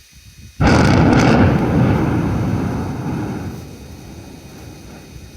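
A sudden close thunderclap about half a second in, sharp crackling at first, then a deep rumble that slowly fades over a few seconds.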